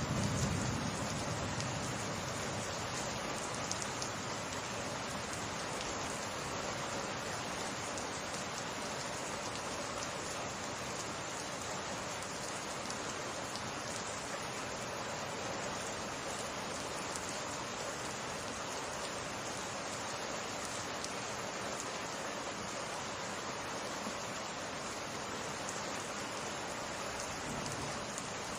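Steady summer rain falling, an even hiss of drops without a break. The last of a thunder rumble dies away in the first second.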